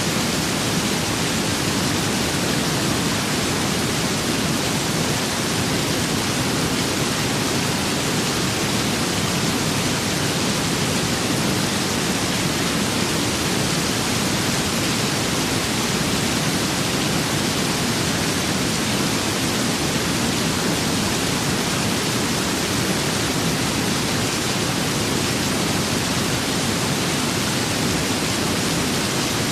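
Steady rain with wind, an even, unchanging hiss with no gusts or separate drops standing out.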